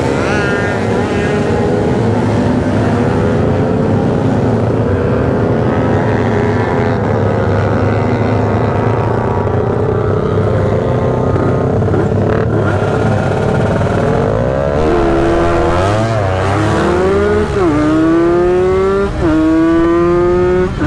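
Many motorcycle engines running and revving together in a dense din. From about 15 s in, a two-stroke Kawasaki Ninja 150 accelerates hard, its pitch climbing and dropping sharply at each upshift, three or four times.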